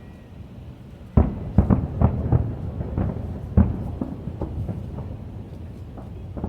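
Aerial fireworks bursting. A quick run of loud, deep booms starts about a second in, the strongest within the next two and a half seconds, then fainter bangs over a low rumble.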